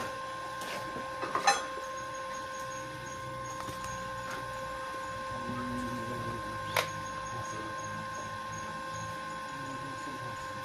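A steady electrical machine whine with a few sharp knocks, one about a second and a half in and another around seven seconds in.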